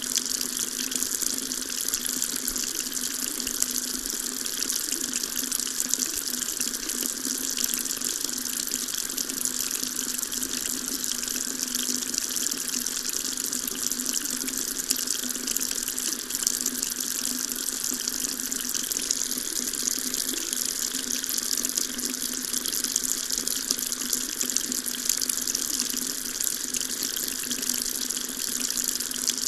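Water tap running steadily, an unbroken hiss of water pouring from the faucet with no pauses or changes.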